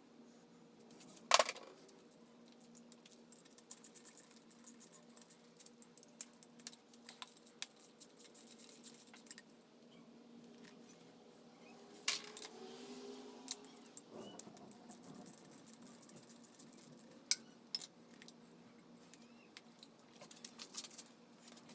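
Hand tools and metal parts of a VW 1600 engine clinking, tapping and rattling as it is taken apart, with one sharp metallic clank about a second in.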